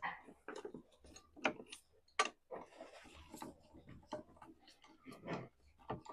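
Irregular clicks and knocks of hand tools being worked on the raised front wheel, with a few sharper knocks among fainter ticks.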